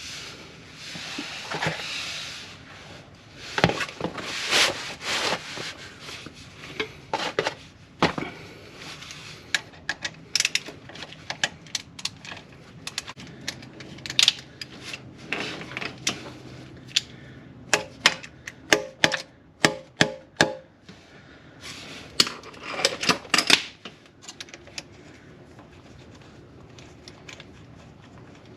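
Hand tools and metal engine parts being handled: irregular metal clicks, knocks and scrapes, with a quick run of clicks past the middle.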